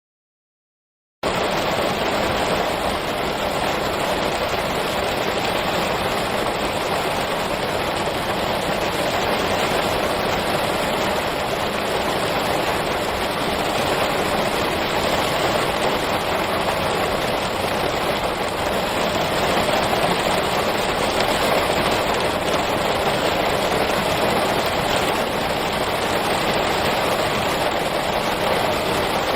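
Steady rain: a dense, even hiss that starts after about a second of silence and holds at a constant level.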